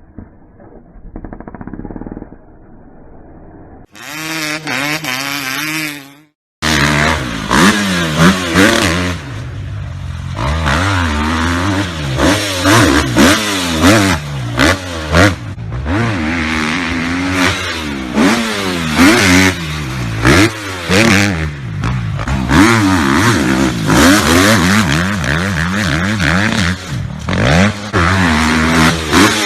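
Several motocross bikes' engines revving, the pitch repeatedly rising and falling with overlapping engines, starting abruptly about six and a half seconds in. Before that there are fainter muffled sounds and a short steady engine drone.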